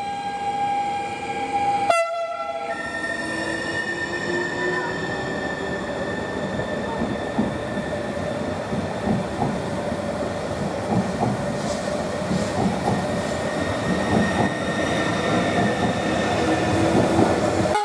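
TILO Stadler FLIRT electric multiple unit (RABe 524) passing through the station. A horn sounds for the first two seconds. Then comes continuous wheel rumble and clatter with a steady electric whine.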